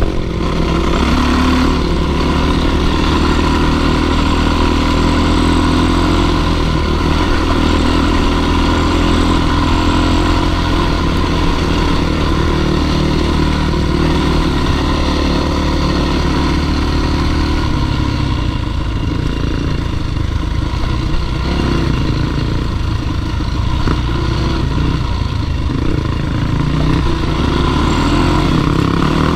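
Dirt bike engine running steadily and loud while climbing; its note shifts a little just past halfway.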